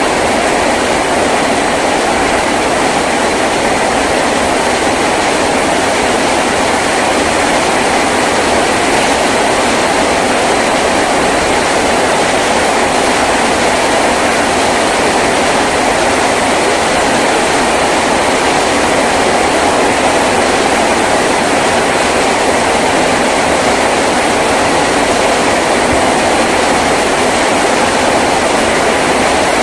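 Heavy rain falling on a tin roof: a loud, steady, even rush with no breaks.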